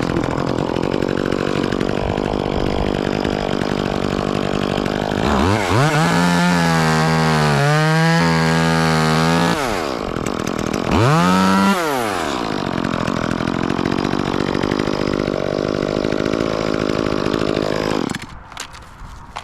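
Two-stroke chainsaw running, then opened to full throttle for a cut through an oak limb about five seconds in, its pitch holding high for around four seconds, dropping, and revving up again briefly. It settles back to a lower note, then stops near the end.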